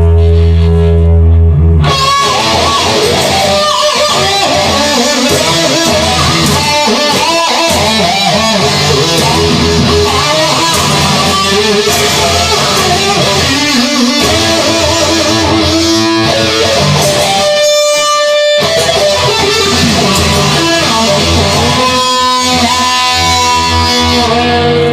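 Instrumental break of a rock song: an electric guitar plays a busy lead line with wavering, bent notes, after a held chord in the first two seconds. It thins out briefly after the middle.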